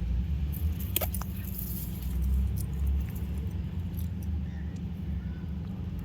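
Cockatiel cracking seeds in its beak: a few sharp little clicks about a second in and faint ticks later, over a steady low rumble.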